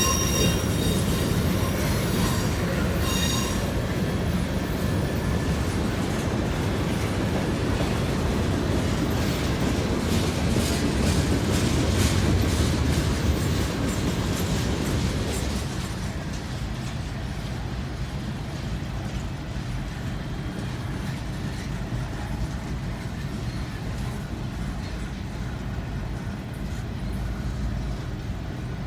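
Freight train's cars rolling past on the rails: a steady rumble with clicking from the wheels, a fading wheel squeal in the first few seconds, and a drop to a quieter rumble about halfway through.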